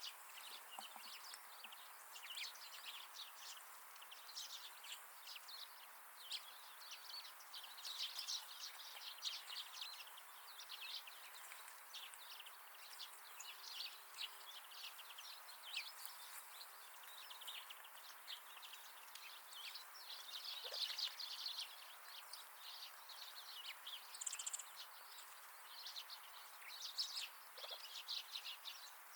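A flock of wild birds chirping and twittering almost without pause in many short, high calls, over a faint steady hiss.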